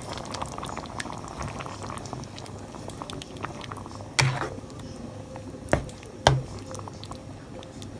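Tomato and cola sauce simmering in a pan with a steady crackling bubble, the stage where cornflour is thickening it. Three sharp knocks, the loudest sounds, come about halfway through and again near the end.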